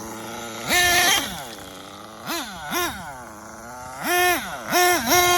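Nitro RC monster truck engine (Dynamite Big Red in an XTM Mammoth) revving in repeated throttle bursts: the pitch climbs quickly, holds at full throttle, then drops away as it backs off, with two short blips in the middle and several bursts near the end.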